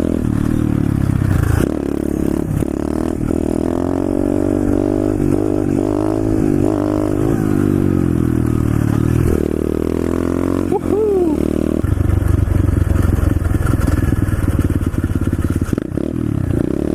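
125cc SSR pit bike's single-cylinder four-stroke engine running while being ridden, its pitch rising and falling with the throttle. It gets rougher and louder for a few seconds in the second half.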